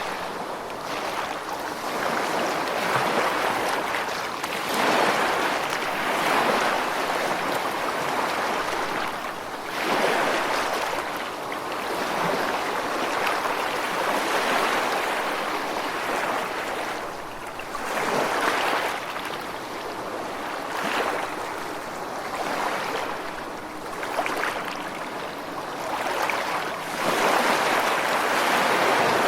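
Ocean waves breaking and washing in, the surf swelling and ebbing every few seconds.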